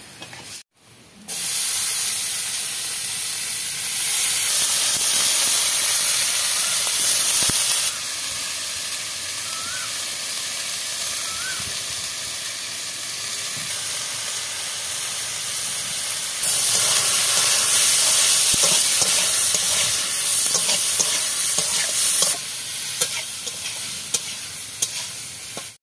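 Chopped long beans sizzling as they fry in hot oil in a wok, with a metal spatula stirring them and a few sharp clicks against the pan. The sizzle jumps up and down in loudness abruptly several times.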